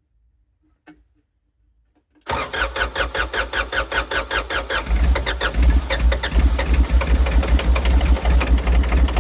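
Terex TA1EH site dumper's engine cranked on its starter motor, turning over in a steady, rhythmic beat for about seven seconds without catching. It starts about two seconds in and gets louder and deeper about halfway through.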